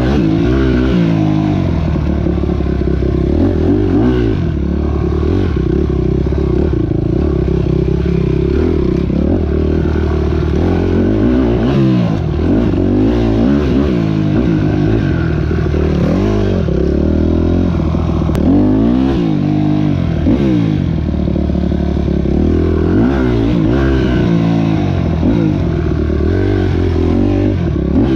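Motorcycle engine running and revving, its pitch rising and falling again and again.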